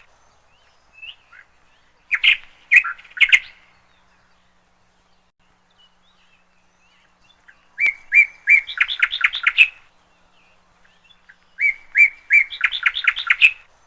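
A songbird singing in repeated phrases, three of them with pauses between. Each phrase is a couple of separate notes followed by a quick run of chirps.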